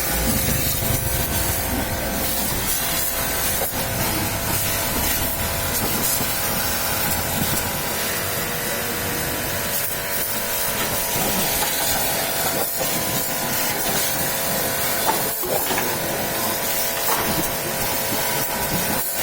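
High-pressure water spray hissing steadily, with a steady machine hum beneath it.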